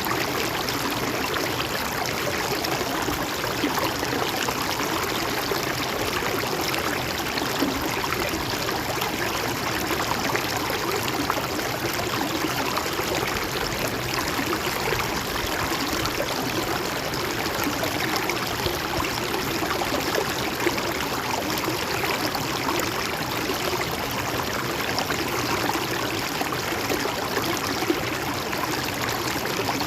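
Steady flowing river water, a continuous rushing and gurgling over stones.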